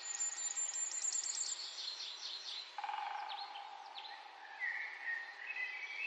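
Several wild birds singing: a fast trill of high notes in the first second and a half, then a few quick falling chirps, and short warbling phrases near the end, over a steady lower background sound.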